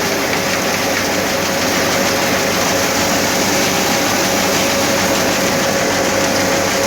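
Tractor-driven wheat thresher running steadily under power: a constant loud machine noise with a steady whine through it.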